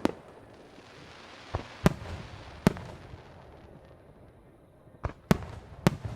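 Aerial fireworks shells bursting, about seven sharp bangs each followed by a low rumbling echo, in two clusters with a lull in the middle, and a hiss between the bangs in the first half.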